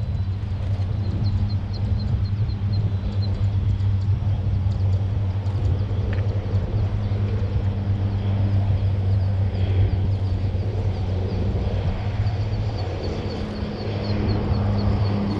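Steady low engine hum with a noisy rush over it, and a quick run of high chirps twice.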